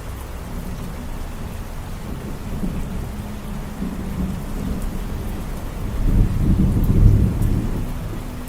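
Steady rain falling, with a low rumble of thunder that swells about six seconds in and dies away near the end.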